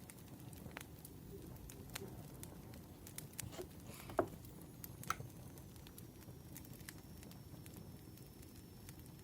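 Wood fire crackling: scattered small snaps and pops over a low rumble, with two louder pops about four and five seconds in.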